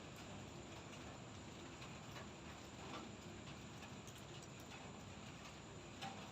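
Light drizzle: a faint, steady hiss of rain with scattered drops ticking and tapping now and then.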